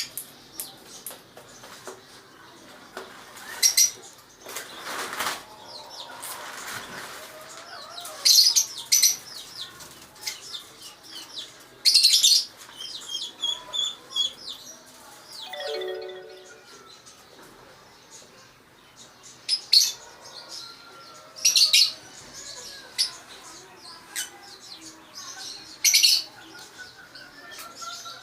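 Aviary birds chirping in short, high-pitched bursts every second or two, with some wing flapping.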